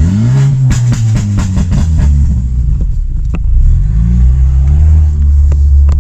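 Straight-piped BMW F30 328i's turbocharged four-cylinder engine revving, then crackling and popping loudly as the revs fall. The pops come from a stage 2 tune with a pops-and-bangs map. A second rev follows, with a couple of single pops.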